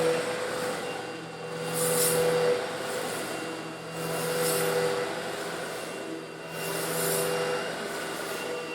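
Eureka vacuum cleaner running steadily while it sucks up coarse stone granules, its motor hum joined by a high hiss that swells about every two and a half seconds.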